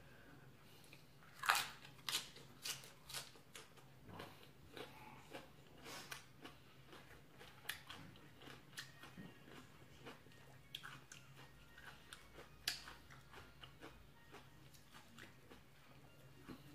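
A person biting and chewing crunchy raw vegetables close to the microphone: a run of irregular sharp crunches, with the loudest bites about a second and a half in and again about thirteen seconds in.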